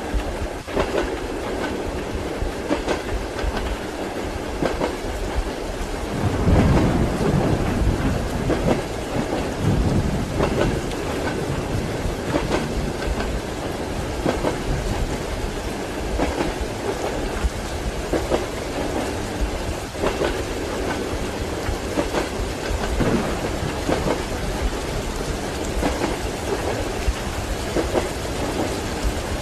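Steady rain with the rhythmic clickety-clack of train wheels on rail joints running beneath it. A low roll of thunder swells about six seconds in and fades over a few seconds.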